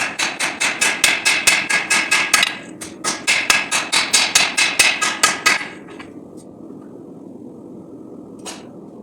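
Hand hammer striking hot 5160 steel on an anvil, with two fast runs of ringing blows at about five a second separated by a short pause. A steady low rushing noise runs underneath and carries on after the hammering stops.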